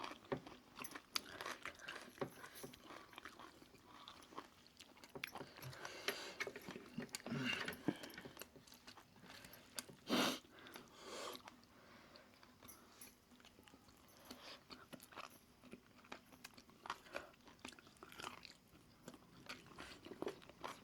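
Close-miked eating sounds: chewing and biting, with wet mouth clicks and occasional crunches. One louder bite or crunch comes about ten seconds in.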